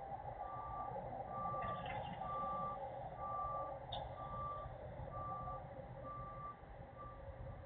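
Truck backup alarm beeping on and on, one high tone about once a second, over a steady hum; the beeps grow fainter near the end. The alarm is still going off, left sounding rather than marking a truck reversing.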